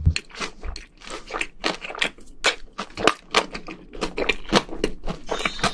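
A person chewing crispy fried food close to a microphone: a quick, irregular series of crunches, several a second.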